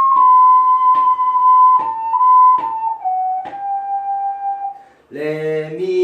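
An ocarina plays a slow phrase in pure, held notes that step downward in pitch, ending about five seconds in. Short regular ticks fall about once a second beneath it, and a man's voice comes in near the end.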